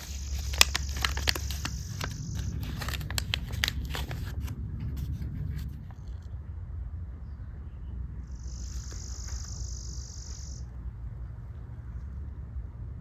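A steady, high insect buzz comes twice, for about two and a half seconds at the start and for about two seconds in the middle. It sounds over irregular small clicks and rustles of handling in the first half and a low outdoor rumble.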